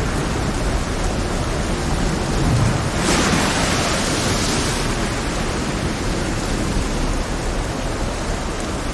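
Heavy rain over a stormy sea: a dense, steady hiss of rain and rough water, with a louder rush of spray-like hiss about three seconds in that lasts nearly two seconds.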